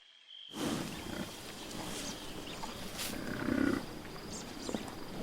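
A wild animal growling low against steady outdoor background noise, with the strongest growl about three and a half seconds in.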